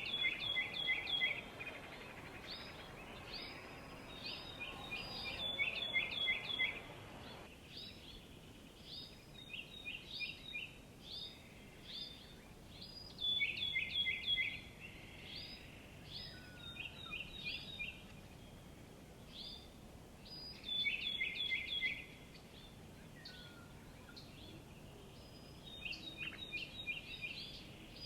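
Small songbirds chirping: repeated short phrases of quick, downward-sliding chirps coming every second or two, over a low background noise that fades out about seven seconds in.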